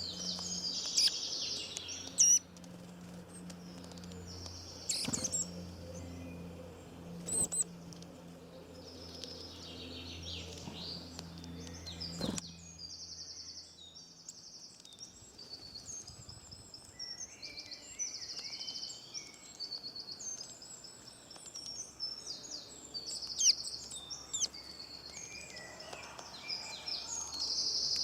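Songbirds chirping and singing, with many short, high calls and trills overlapping. A few sharp clicks stand out, and a low steady hum stops about halfway through.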